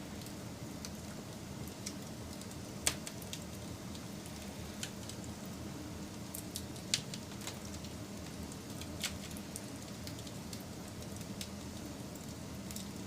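Wood fire crackling: a steady low rustle of burning wood with scattered sharp pops, the loudest about three and seven seconds in.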